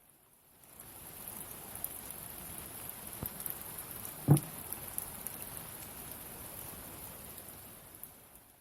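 Steady rain falling and pattering, with scattered drop ticks and one louder knock about four seconds in. It comes in after about half a second of silence.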